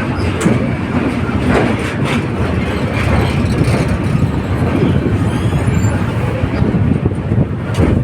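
Train running at speed: a steady heavy rumble with scattered sharp clicks of the wheels over the rails.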